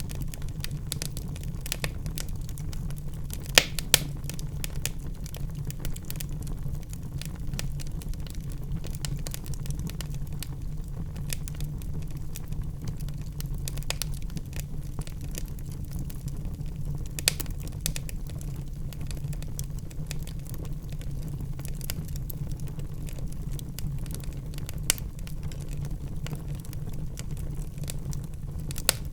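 Wood fire burning in a fireplace: a steady low rumble of flames with irregular crackles and a few sharper pops from the burning logs.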